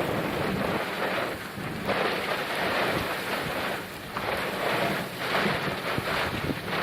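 Heavy rain pouring down in a thunderstorm, a dense hiss that swells and eases every second or two.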